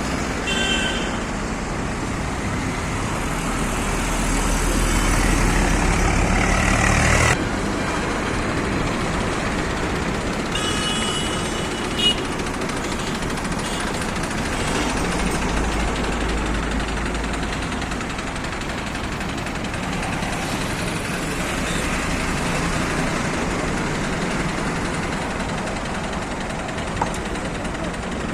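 Heavy diesel engines of a tractor and JCB machine running continuously. The low engine rumble swells over the first seven seconds, then cuts off abruptly. A short high squeal comes about eleven seconds in.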